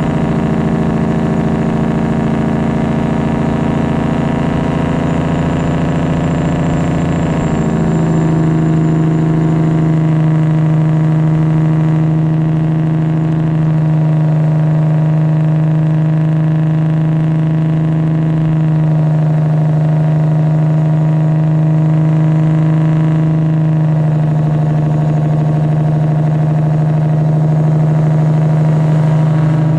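Straight-piped Detroit Diesel 12.7 straight-six in a Freightliner Classic XL, running steadily with a deep exhaust drone. Its pitch steps up and it gets louder about eight seconds in, then holds with small shifts.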